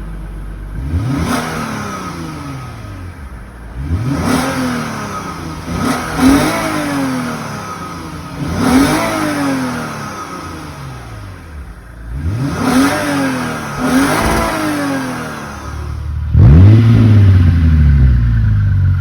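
Lexus IS350's 3.5-litre V6 being free-revved in short blips through its exhaust, each rev rising and falling back, about eight times. After a cut about sixteen seconds in, the revs are louder and longer: the Megan Racing axle-back exhaust with the resonator deleted, following the stock exhaust.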